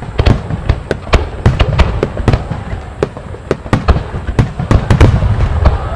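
Aerial firework shells bursting in a rapid barrage, several loud bangs a second over a continuous low rumble of echoing booms.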